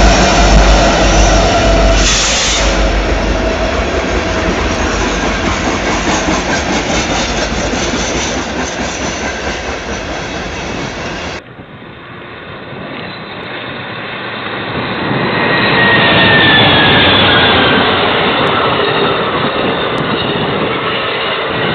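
A train rolling past a trackside webcam, a loud steady rolling noise. A little past halfway it cuts abruptly to another camera, where a passing train grows louder again, with a faint tone sliding slowly downward.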